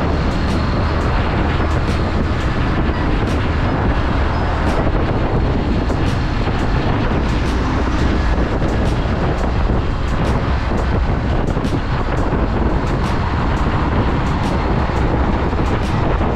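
Motorcycle riding steadily at speed: continuous wind rush over the microphone with the engine's low drone underneath.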